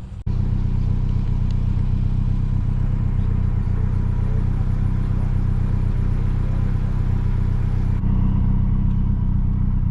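Open-top MG Midget sports car driving at a steady speed: a continuous engine drone with road and wind noise.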